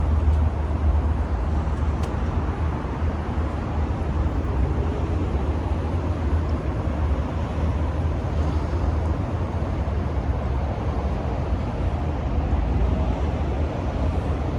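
Steady vehicle and traffic rumble of a busy car park, a constant low drone with a hiss over it and no single event standing out.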